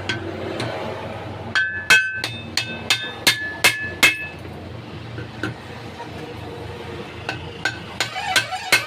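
A hammer striking metal in a quick run of about eight blows, each ringing briefly. After a pause, a few lighter blows follow near the end.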